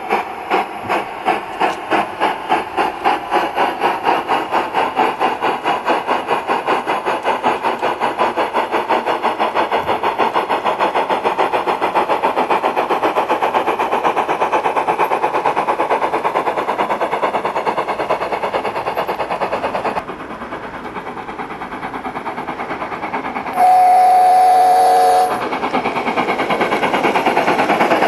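Recorded steam-locomotive sound from the MyLoco sound card in an Accucraft K27 Mudhen gauge 1 model, played through the locomotive's speaker. The exhaust chuffs start slowly and quicken as the locomotive pulls away, then drop in volume about 20 s in. Near the end comes one American steam whistle blast lasting under two seconds, after which the chuffing picks up again.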